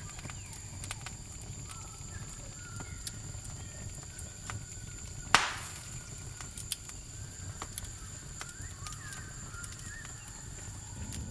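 Campfire crackling with scattered small pops and one loud pop about five seconds in, over a steady high-pitched cricket trill and a low rumble.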